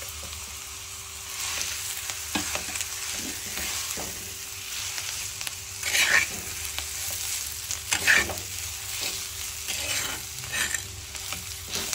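Mashed potato and chopped onion frying in oil in a clay kadhai, sizzling as a flat spatula stirs and presses it, scraping across the pan. The loudest scrapes come about six and eight seconds in.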